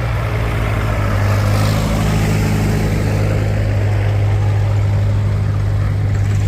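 Antique farm tractor engine idling steadily, a low even drone with no revving.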